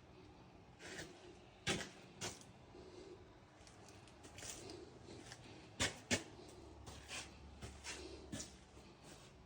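Scattered sharp clicks and knocks, about a dozen at irregular spacing, over a faint steady background.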